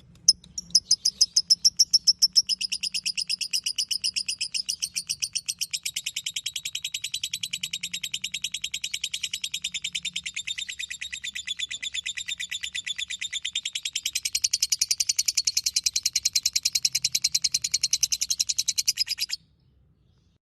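Lovebird's ngekek: one long unbroken chatter of rapid, high-pitched repeated notes. It opens with a few slower, louder notes, quickens into a fast even trill, and stops abruptly near the end.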